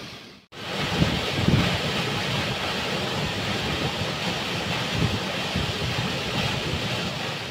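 Waterfall rushing steadily, a dense even roar of falling water; it drops out briefly about half a second in and fades near the end.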